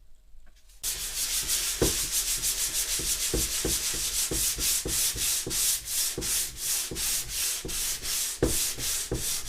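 240-grit sandpaper rubbed back and forth over a Renault Laguna 2's plastic headlight lens, starting about a second in and going on at about four strokes a second. The coarse paper is cutting away the old lacquer coat that clouds the lens.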